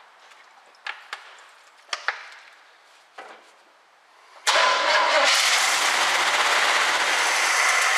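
A few light taps, then about four and a half seconds in the 1967 Camaro's engine suddenly catches and runs loudly on fuel poured into the open carburetor.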